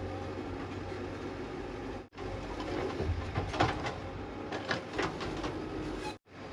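Heavy diesel machinery engine running steadily, with a string of metallic clanks and rattles in the middle. The sound cuts out briefly twice.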